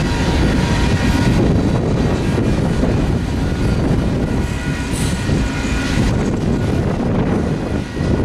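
Freight cars (covered hoppers, then tank cars) rolling past: a steady heavy rumble of steel wheels on rail.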